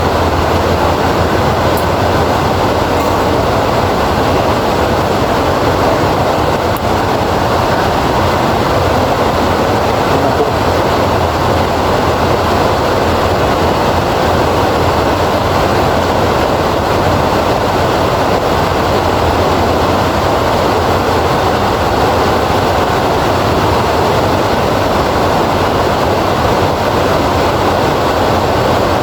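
Steady rain, an even wash of noise that holds constant throughout.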